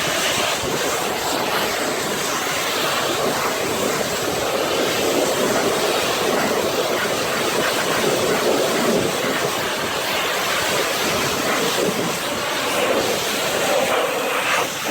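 Pressure washer wand spraying a steady high-pressure jet of water, rinsing foam and road film off a truck: a constant loud hiss of spray.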